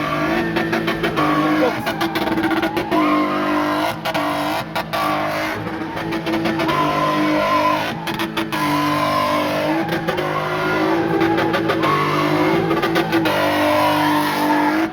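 Drift car's engine held at high revs, its pitch swinging up and down again and again as the throttle is worked, with tyres squealing as it slides.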